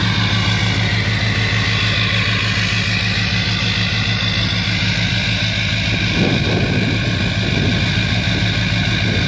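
LBZ Duramax 6.6-litre V8 turbodiesel idling steadily through a straight-piped 3.5-inch exhaust, running cold at -10°F and not yet in high idle. A short noisy rustle about six seconds in.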